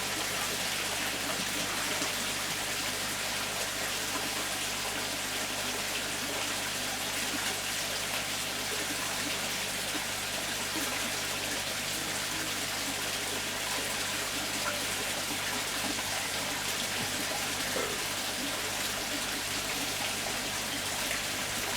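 Steady splashing water with an even hiss that does not change.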